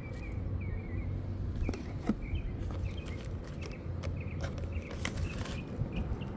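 Small birds chirping: many short, high chirps from several birds, over a steady low rumble and a few sharp clicks.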